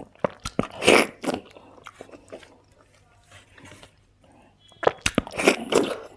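Close-up eating sounds: crunchy bites and chewing, with two loud crunching bursts, one about a second in and a longer one near the end, and softer chewing clicks between.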